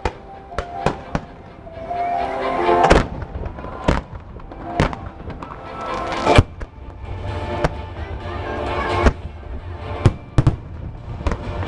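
Aerial fireworks bursting in irregular sharp bangs, about one a second, some close together, over show music playing underneath.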